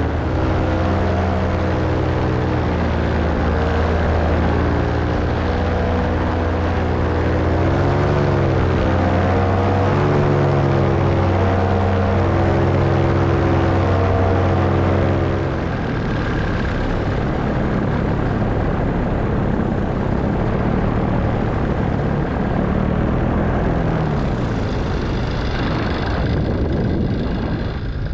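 Paramotor engine and propeller running at steady throttle with a strong droning hum, the pitch wavering up and down a few times. About halfway through the engine note drops away, leaving the rush of wind over the microphone.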